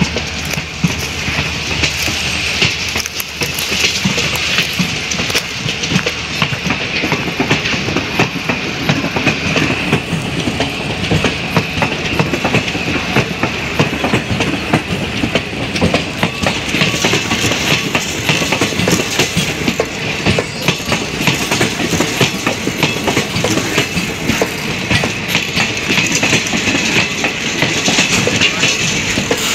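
Indian Railways ICF passenger coaches rolling past close by, their wheels clattering over the rail joints in a steady, rapid clickety-clack over a continuous rumble.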